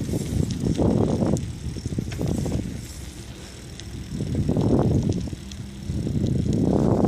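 Wind rumbling and buffeting the microphone of a moving bicycle, coming in gusts that swell and ease off, with a lull about three seconds in.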